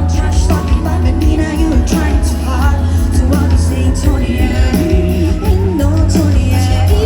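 Live band music at concert volume, with heavy bass and a singing voice, recorded on a phone from the audience.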